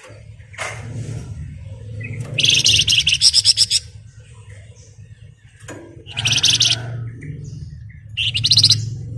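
Flamboyan (Wergan Jawa) songbird singing in fast, rattling trills, the 'ngebren' song, in three loud bursts, with a steady low hum underneath.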